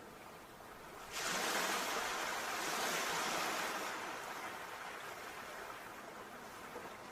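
Sea waves. A wave breaks about a second in with a sudden surge of rushing noise, and its wash fades slowly over the following seconds.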